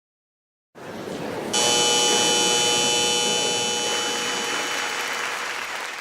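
An edited-in sound effect: a hissing swell that breaks about a second and a half in into a bright, shimmering ring of several steady tones, fading slowly.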